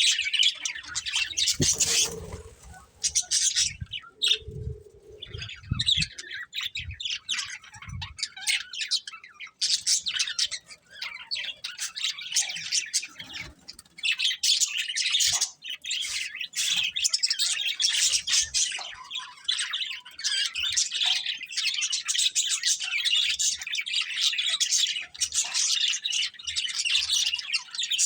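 Budgerigars chirping and chattering in a rapid, continuous stream of high tweets and squawks, with a couple of brief lulls. A few soft low thumps come in the first several seconds.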